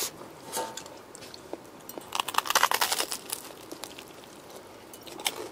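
Crunching of food being bitten and chewed: scattered small crackles, with a dense run of crunchy crackling about two seconds in that lasts about a second.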